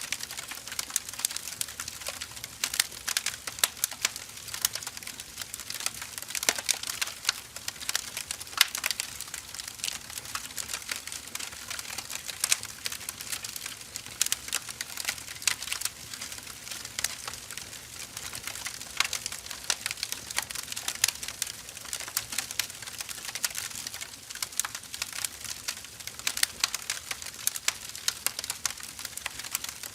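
Burning firewood crackling steadily: a dense stream of small pops and snaps, with a few louder snaps scattered through.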